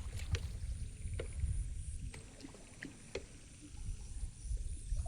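Shallow water sloshing, with a few small splashes and clicks spread through, over a steady low rumble of wind on the microphone.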